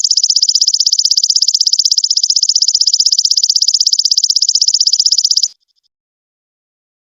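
Golden locust (belalang emas) calling: a loud, high-pitched buzzing trill of fast, even pulses that stops abruptly about five and a half seconds in.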